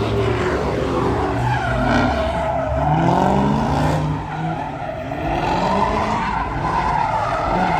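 Car sliding in a drift with its tyres squealing and its engine revving hard, the engine pitch rising and falling as the throttle is worked.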